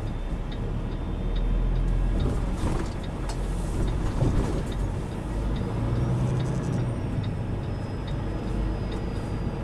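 Semi truck's diesel engine running low and steady, heard from inside the cab while the truck waits and creeps in a line of trucks.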